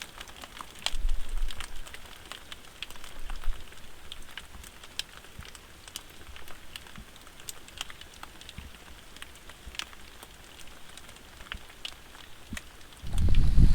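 Rain falling, with single drops ticking sharply on a nearby surface over a faint steady patter. A loud low rumble sets in just before the end.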